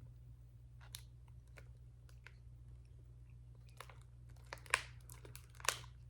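Faint, scattered crinkles and clicks of a plastic candy pack being handled, a few louder crackles near the end.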